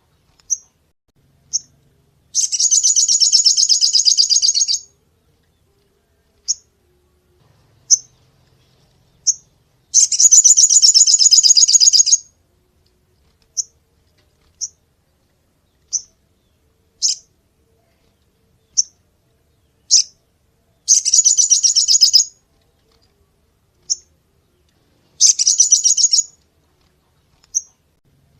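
Crimson sunbird (sogon) singing: four bursts of very rapid, high-pitched trilling notes, each lasting one to two and a half seconds, with single sharp chirps about every second between them.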